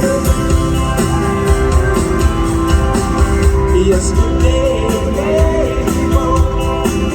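A live rock band plays a mid-tempo rock song over the concert sound system, with electric guitar, bass and drums keeping a steady beat under a melody line that bends in pitch.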